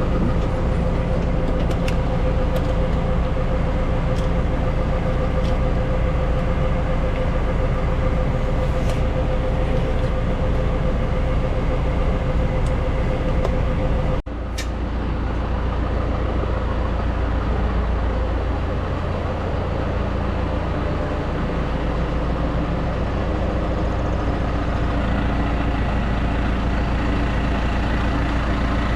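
Tractor engine running steadily at idle, with a sudden break about fourteen seconds in.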